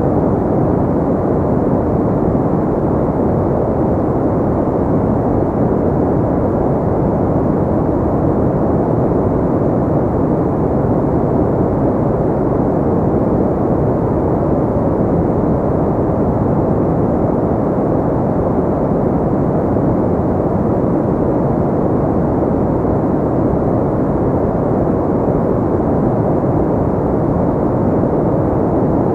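Steady, unchanging synthetic noise for sleep and relaxation, deep and muffled in tone rather than hissy, with no other sounds on top.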